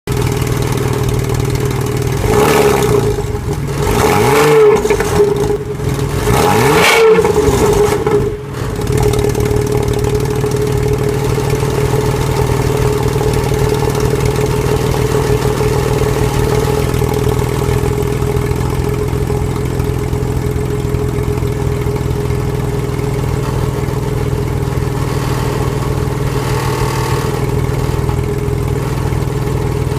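Porsche Boxster 986 flat-six with a loud exhaust, revved three times in quick blips, each rising and falling, then settling back to a steady idle for the rest of the time.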